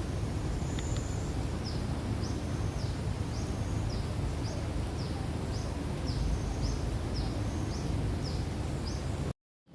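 A bird calling over and over in short high chirps, about two a second, over a steady low rumble. The sound cuts out abruptly for a moment near the end.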